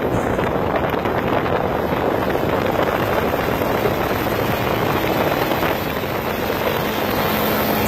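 New Holland 3630 tractor's diesel engine running steadily under load, mixed with wind noise on the microphone.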